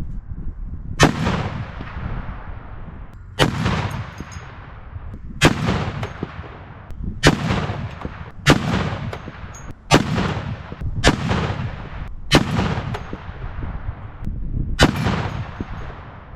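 Barrett M82A1 semi-automatic .50 BMG rifle firing nine shots, irregularly one to two and a half seconds apart, each a sharp report trailing off in a long echo.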